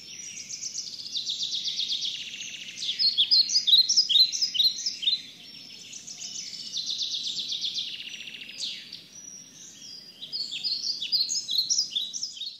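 Many birds chirping, calling and trilling over one another in a dense chorus, with rapid trills and short repeated calls, over a faint low background rumble.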